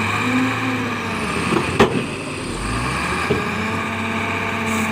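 Heavy diesel engine of earthmoving machinery running under load, its speed rising and falling and then holding steady, with a sharp metallic clank just under two seconds in.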